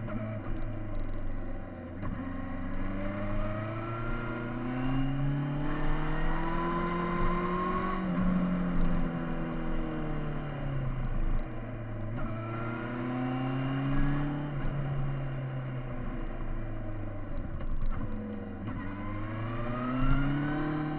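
Kawasaki Z1000 inline-four motorcycle engine under way, its pitch climbing as it accelerates. It falls back as the bike slows around the middle, then climbs again several more times, the last near the end.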